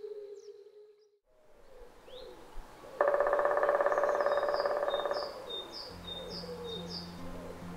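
Woodland birdsong: high chirps repeated about twice a second, with a loud, rapid buzzing trill lasting about two seconds a third of the way in. Low steady music tones come in near the end.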